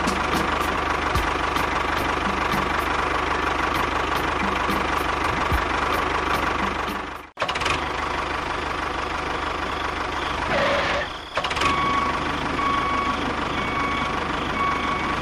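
An engine running steadily, breaking off for an instant about halfway and then running on. In the last few seconds, an intermittent beeping joins it, a little more than one beep a second.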